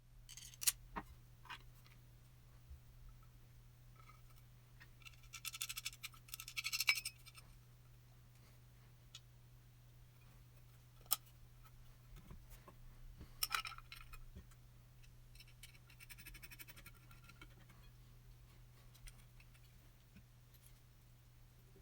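Quiet hand-work on a metal lamp part: two spells of scratching or rubbing and a few sharp clicks, over a steady low hum.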